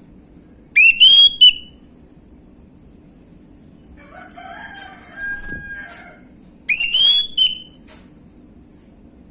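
Orange-headed thrush singing: two loud, short phrases of rising whistled notes, one about a second in and another about seven seconds in. Between them a fainter, lower call lasting about two seconds.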